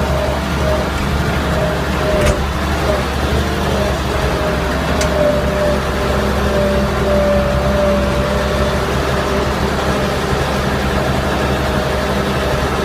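Tractor engine running steadily under way, with two brief clicks about two and five seconds in.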